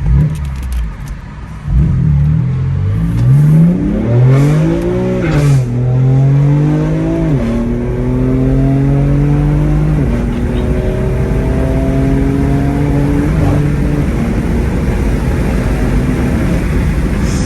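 Straight-piped BMW M4 twin-turbo inline-six under hard acceleration, launched and run up through the gears: the exhaust note climbs in pitch, drops sharply at each of about five upshifts, then holds steady near the end.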